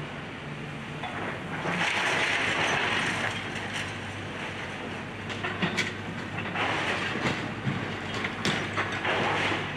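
Excavator engine running while house debris crunches and clatters, with a few sharp cracks partway through.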